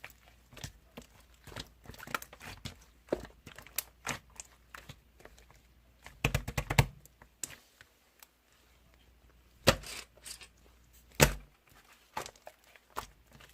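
Irregular clicks, taps and knocks with some rustling, as of objects being handled close to the microphone, with a quick cluster of knocks midway and two sharp knocks near the end.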